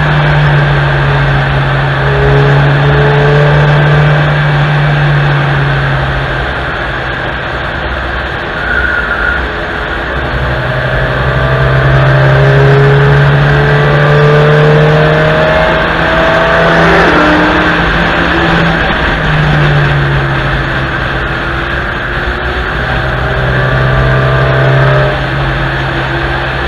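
Onboard sound of a fourth-generation Honda Civic hatchback's four-cylinder engine pulling hard on a race-circuit lap, over a constant rush of tyre and wind noise. The engine note drops away twice, as the car lifts off into corners, and comes back each time as it accelerates again.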